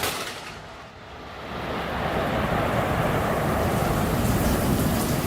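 The tail of a loud thunderclap fading over about a second, then a steady rushing noise of storm wind on the microphone that swells in and holds.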